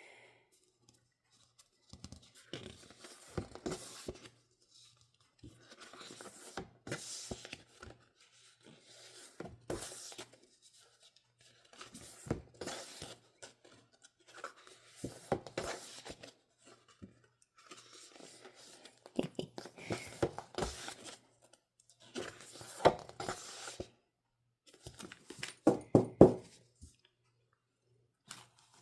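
Thick cardstock photo prints and their packaging being handled: repeated rustling and sliding scrapes with light taps, in bursts every second or two.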